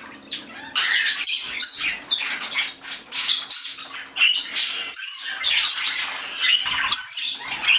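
A mixed flock of pet budgies, cockatiels and other small parakeets chirping and squawking over one another in a continuous busy chatter.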